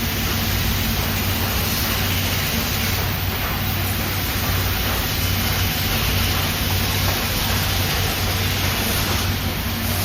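Steady factory-floor machinery noise: an even hiss with a constant low hum.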